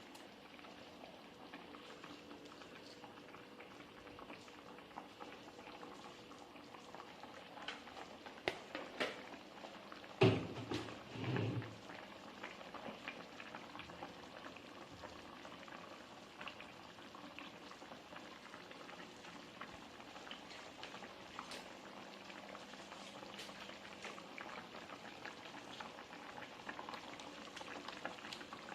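Chicken teriyaki bubbling and crackling as it simmers in its sauce in a pan, with a steady run of small pops. About ten seconds in come a few louder knocks, two of them dull and heavy.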